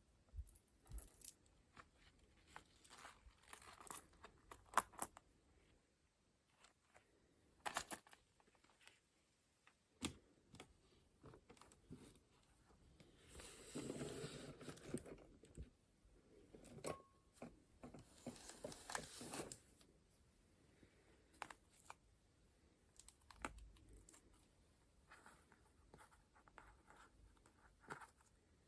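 Paper collage pages being handled and turned: soft rustles and small taps, with two longer papery swishes of a page turning, one about halfway and one about two-thirds of the way through.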